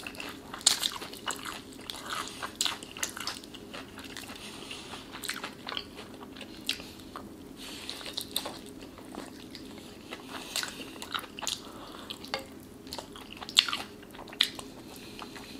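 Close-miked chewing of fried chicken: irregular crunches from the crispy breading mixed with wet mouth clicks and smacks as meat is pulled off the bone and eaten.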